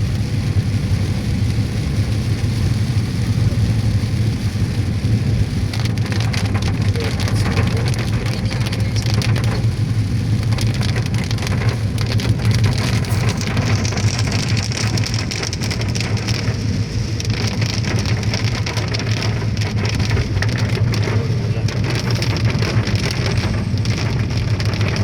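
Heavy rain pelting a car's roof and windshield, heard from inside the cabin over a steady low drone of engine and road noise. The raindrop strikes grow denser about a quarter of the way in and heavier again about halfway through.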